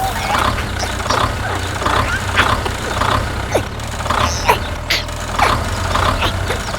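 Steady low engine rumble of a small vehicle, with short high chirps scattered irregularly over it.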